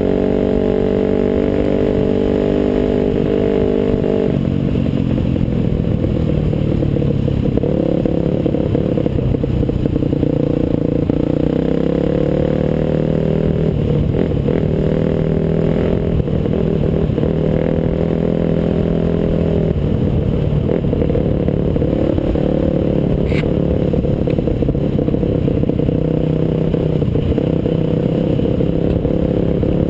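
Off-road motorcycle engine running steadily while being ridden, its pitch stepping up and falling back several times with throttle and gear changes. One short sharp click about two-thirds of the way through.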